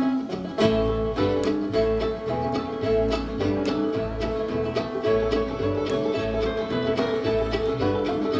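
Live bluegrass band opening an original song with an instrumental kick-off: banjo and guitar picking over a steady bass pulse. It starts abruptly.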